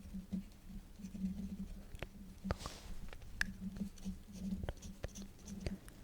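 Quill pen nib scratching across paper in strokes, with scattered sharp ticks.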